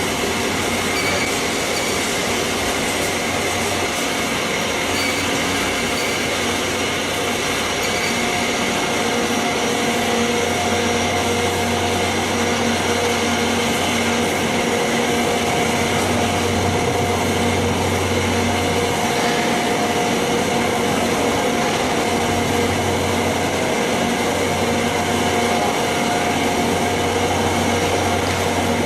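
Processing-plant machinery running steadily: an even mechanical rush with a constant low hum and a few steady tones.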